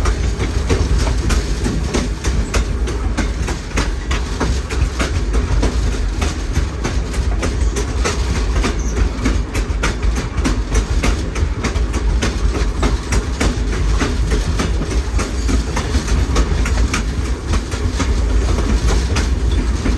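Railroad passenger car rolling along the track, wheels clicking over rail joints again and again over a steady low rumble.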